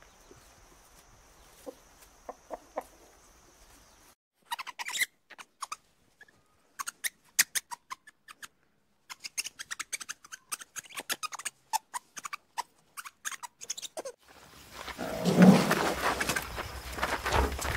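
A run of sharp clicks and crackles, then, about three-quarters of the way in, a louder stretch of a rhinoceros crunching and chewing carrots and leafy greens.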